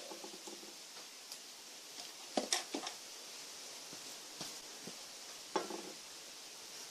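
Faint steady hiss with a few light clicks and knocks, a cluster about two and a half seconds in and another near six seconds.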